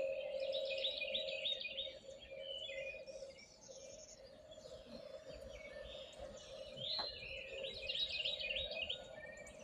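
Several songbirds singing in a morning chorus, one bird repeating the same rapid phrase near the start and again near the end, over a steady low hum.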